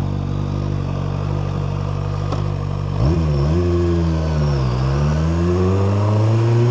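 QJMotor SRK 921 RR's 921 cc inline-four engine idling steadily in neutral. About three seconds in, the revs rise sharply as it pulls away, falling back twice with gear changes and then climbing again.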